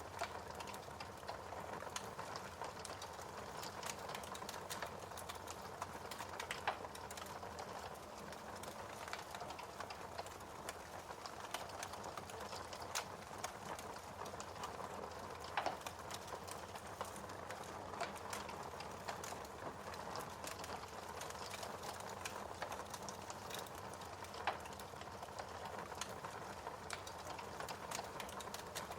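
Wood fire crackling in a fireplace: a steady hiss full of small snaps, with three louder pops spread through.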